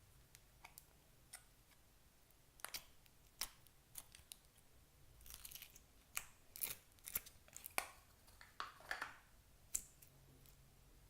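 Clear slime being pressed and stretched by hand, giving faint, irregular sticky clicks and small pops that come thicker after the first couple of seconds.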